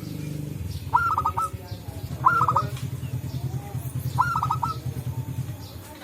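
Zebra doves (perkutut) calling. Three quick clusters of three to four short notes come over a low rolling rumble that fades out near the end.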